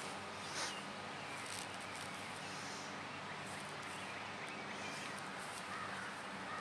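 Faint birds chirping over a steady background hiss, with a brief rustle about half a second in.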